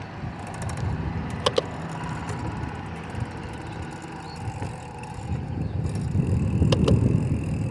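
Bicycle being ridden, with a low rumble of wind and road noise on the bike-mounted microphone that grows louder near the end, and a few sharp clicks from the bike, two about a second and a half in and one near the end.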